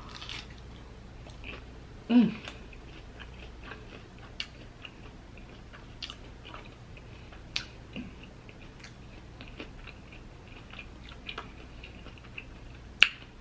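Close-miked chewing of a deep-fried battered scallop, with scattered small mouth clicks and smacks. There is a brief hummed "mm" about two seconds in and a sharp click near the end.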